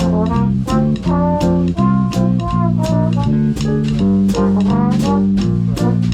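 Swing band playing jazz: brass melody over a walking bass line, with the drum kit marking the beat about twice a second.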